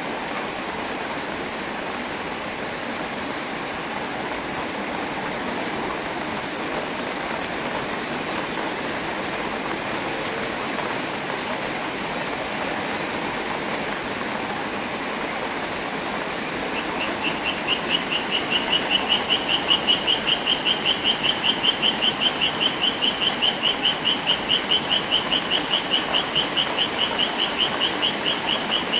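Steady rain falling. A little past halfway, a high call starts repeating evenly, about three to four pulses a second, and goes on through the end.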